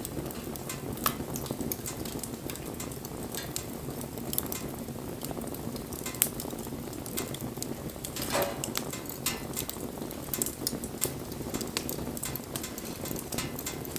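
Wood fire burning, crackling with frequent irregular sharp pops over a steady hiss. About eight seconds in a brief wavering tone sounds.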